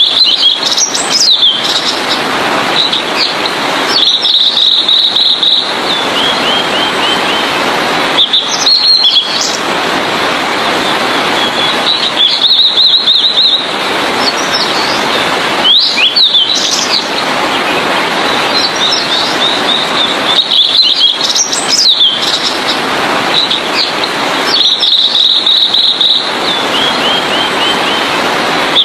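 Blue-and-white flycatcher singing: a phrase of high whistles, a rapid trill and a run of short falling notes, repeated about every eight seconds. Under it runs a loud steady hiss of background noise that drops out briefly between phrases.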